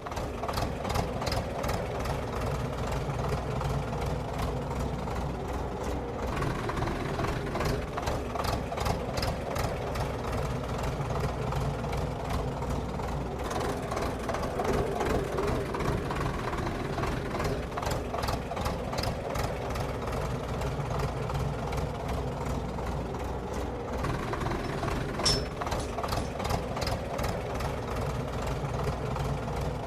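A steady engine-like running sound with a low hum and regular sharp knocking clicks, shifting slightly in character a few times.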